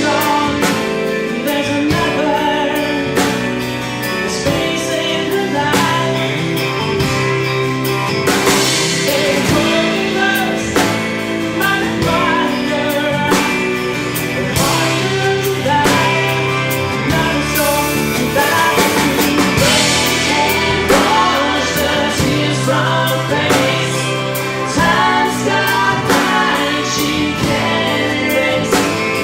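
Live band playing a mid-tempo song: drum kit keeping a steady beat under bass, acoustic guitar and keyboards, with a melody line carried on top.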